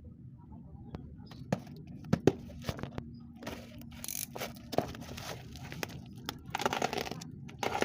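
Packaging being torn open and rustled by hand, with scattered sharp clicks and knocks as the contents are handled, and a longer stretch of rustling near the end.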